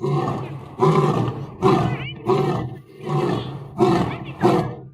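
Lion roaring: a run of about seven short, deep roars in quick succession, roughly one every 0.7 seconds.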